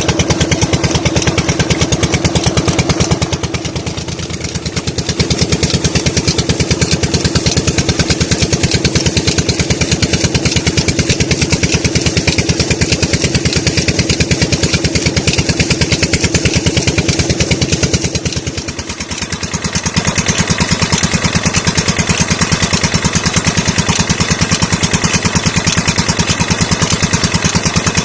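12 hp Petter-type diesel engine driving a tube-well pump, running steadily with a fast, even train of exhaust thumps. Twice the sound briefly drops lower for a second or two before coming back to full strength.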